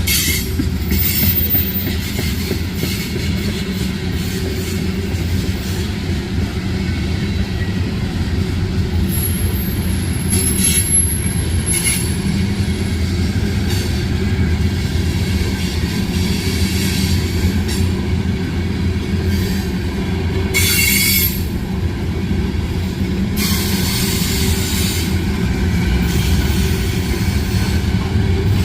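Freight train cars rolling past with a steady low rumble, and brief high-pitched wheel squeals now and then, the strongest in the middle and about two-thirds of the way through.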